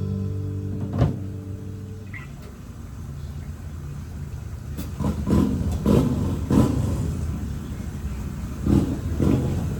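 A held band chord rings out over the first two seconds. From about halfway on, motorcycle engines rev in several short bursts.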